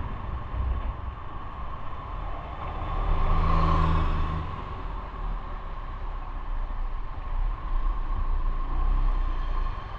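Motorcycle running on the road in traffic, a steady engine rumble with road and wind noise. The sound swells louder for about a second and a half a few seconds in.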